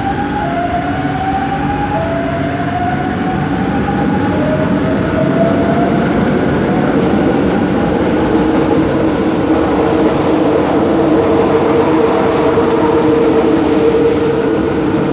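Bombardier Innovia ART 200 metro train running, with the whine of its linear induction motor drive rising in pitch in several steps over the first six seconds as the train gathers speed. The whine then settles into a steadier hum over the rumble of the running train.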